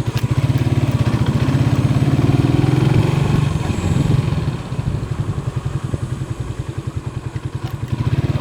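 Motorstar Star X 125 motorcycle's single-cylinder engine running as it is ridden, its pitch rising for the first three seconds or so, then falling back and settling.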